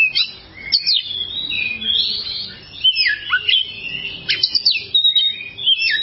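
Oriental magpie-robin (kacer) singing a continuous, varied run of whistled notes with quick rising and falling sweeps.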